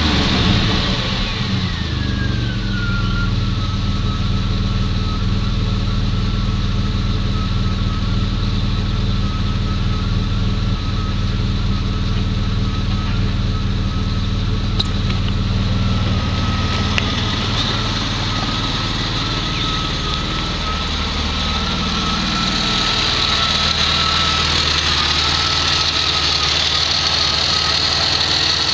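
Renault Safrane's LPG-converted V6 engine dropping back from a rev and settling into a steady idle at about 1,000 rpm, a thin whine falling with the revs over the first few seconds and then holding steady. Near the end it is heard from the open engine bay rather than from inside the car.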